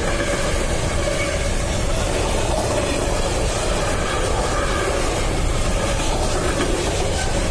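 Two freight trains of container wagons passing each other over a double-track level crossing, wheels and wagons rumbling and clattering steadily, with the crossing's AŽD 71 classic electric warning bell ringing.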